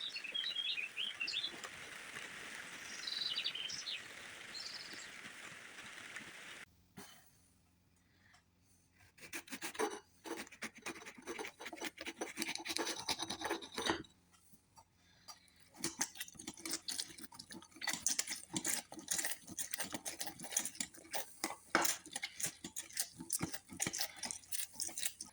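Steady rain hiss with small birds chirping, which cuts off suddenly about six seconds in. After a short lull, a long run of close, irregular scratching, rubbing and clicking follows.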